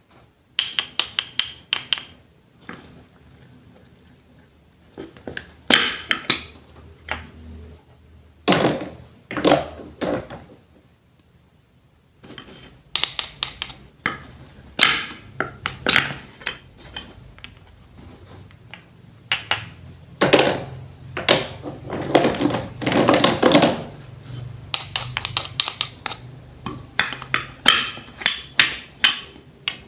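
Irregular clusters of sharp taps, clicks and knocks from small hard objects being handled, tapped and set down, with short quiet gaps between the clusters.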